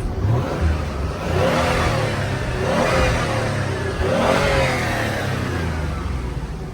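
Nissan 300ZX Twin Turbo's 3.0-litre V6 revved twice in the stall, the pitch climbing and falling back each time, with the engine running steadily between.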